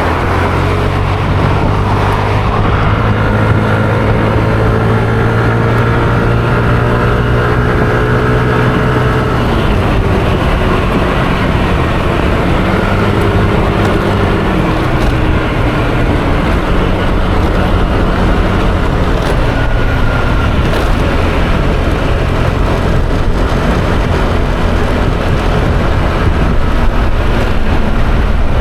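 Yamaha Aerox 155 scooter's single-cylinder engine running on the move. Its pitch holds steady for several seconds, then drops and rises again a few times as the throttle is eased and opened. A steady rushing noise of wind and road runs underneath.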